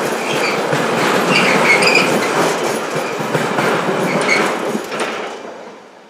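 Freight train wagons rolling past, clattering over the rail joints with short, high wheel squeals. The noise dies away near the end.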